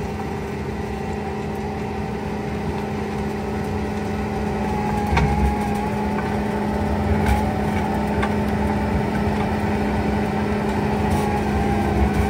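Bobcat T86 track loader running under load with a Coneteks forestry mulcher rotor spinning: a steady, loud engine and rotor hum that grows slightly louder. A few sharp knocks come about five, seven and eleven seconds in as the rotor teeth hit old stumps buried under the brush.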